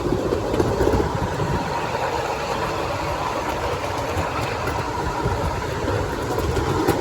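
Steady running noise of a miniature railway train, heard from aboard as it travels along the track.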